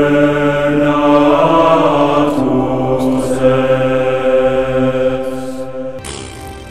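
Chanted vocal music: long held notes that shift to a new chord twice, then cut off suddenly near the end.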